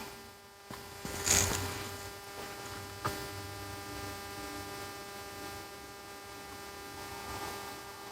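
Steady electrical mains hum with a buzz of even overtones. A short hiss comes about a second in, and a small click near three seconds.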